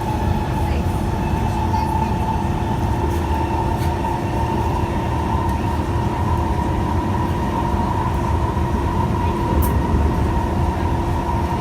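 Inside a Kawasaki Heavy Industries C151 MRT car running steadily: constant rumble of the wheels on the track with a steady whine over it.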